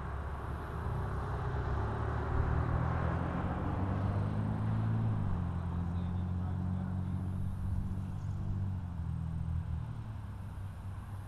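A low engine hum that builds for a few seconds, drops in pitch about halfway through and fades out, over a steady background noise.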